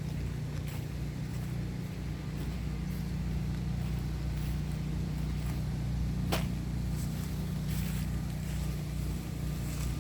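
A steady low engine hum that stays even throughout, with a few faint clicks and one sharper snap about six seconds in.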